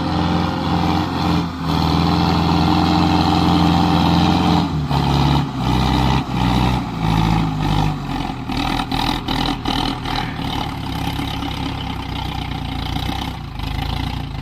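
Sonalika DI 750 tractor's diesel engine running at high revs, then dropping and wavering in pitch about five seconds in and running lower and rougher, as if labouring under load in soft soil.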